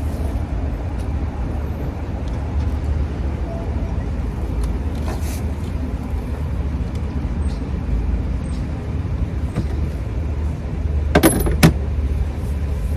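Metal hand tools clinking as they are sorted: a few light clicks about five seconds in and a louder cluster of clinks near the end, over a steady low rumble.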